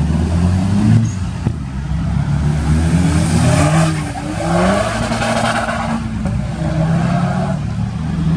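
Car engines running, with one car revving up and down and pulling away around the middle, its exhaust rushing loudly at full throttle.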